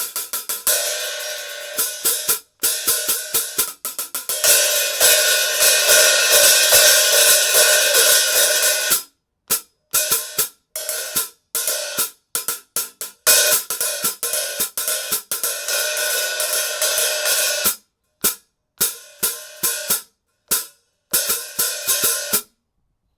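Zildjian 14 1/4" K Custom Hybrid hi-hats being played in a sound test after the crack in the top cymbal was repaired: rapid strokes with stretches of open, washy ringing, broken by several short stops.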